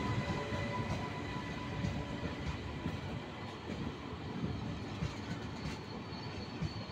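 Passenger train coaches rolling past close by: a steady rumble of wheels on rail with scattered small knocks, growing slightly quieter.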